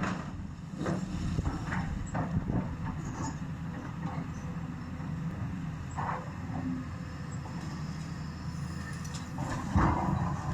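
Heavy machinery engine running steadily during a house demolition, with scattered knocks of debris and a louder crunch near the end.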